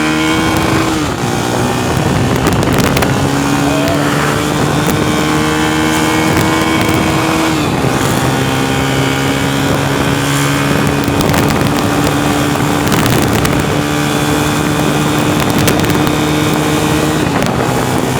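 A vehicle's engine running on the move. Its pitch climbs slowly and then drops sharply as it shifts up, near the start, about eight seconds in and again near the end. Wind and road noise run underneath.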